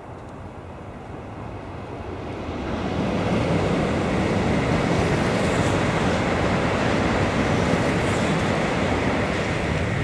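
Shinkansen bullet train passing on the elevated track, a steady rushing rumble of wheels and air that builds over the first three seconds, then holds loud and even.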